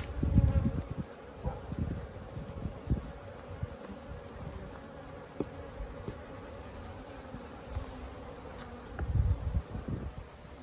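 Honeybees buzzing steadily around the hive entrance, agitated as the entrance is being narrowed with a stuffed-in sock. Low rumbling bumps come near the start and again near the end.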